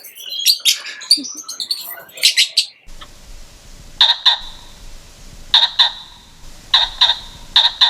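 Bird chirps and squawks, busy and varied, for the first three seconds. After an abrupt change of recording, a different animal gives short calls in pairs, about every second and a half.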